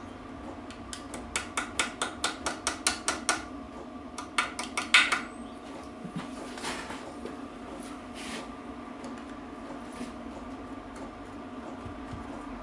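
Small hammer tapping lightly on metal gearbox parts: a quick run of about a dozen taps at roughly five a second, a short louder cluster, then a couple of single taps.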